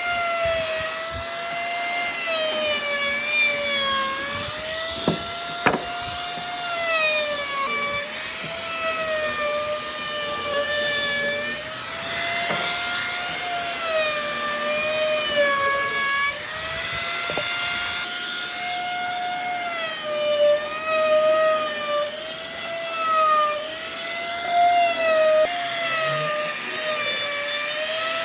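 Electric power tool working wood: its motor runs continuously, with a pitch that sags and recovers every second or two as it is pushed into the wood. A few sharp clicks or knocks come through along the way.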